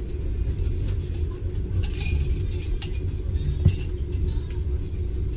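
Passenger train running, heard inside the carriage: a steady low rumble with light clinking and rattling on top, and one short knock a little over halfway through.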